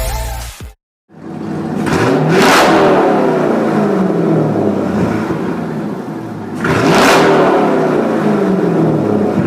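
Two V8 cars passing at speed one after the other, about two and a half and seven seconds in. Each engine note climbs as the car approaches and drops away as it goes by.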